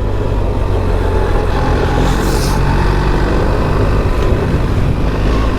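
BMW R 1300 GS Adventure's 1300 cc boxer-twin engine running steadily as the bike rides along a sandy dirt trail, with wind and tyre noise. A short hiss breaks in about two seconds in.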